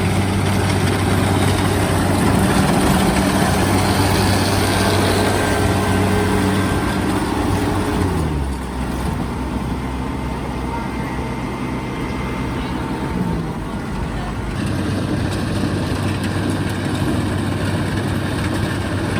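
Kubota rice combine harvester's diesel engine running steadily; its pitch drops about eight seconds in, then briefly rises again a few seconds later.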